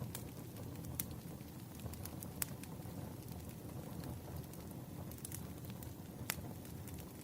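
Firewood burning: a steady low rumble of the fire with scattered sharp crackles and pops, the loudest about a second in, midway, and near the end.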